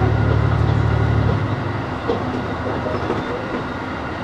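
Inside the front car of an HB-E300 series hybrid railcar running along the track, wheels clacking over the rails. A strong low drone drops away about a second and a half in, leaving a quieter rumble with a few sharp clicks.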